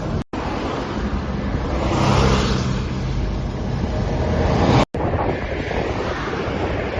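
Wind rumbling on the microphone over a running vehicle engine, broken twice by abrupt cuts.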